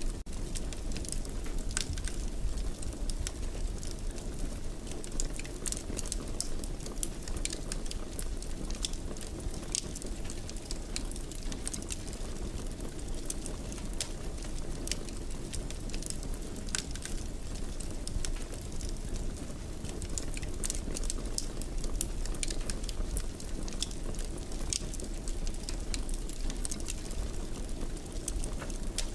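Fireplace wood fire burning steadily: a low rumble of flames with irregular sharp crackles and pops.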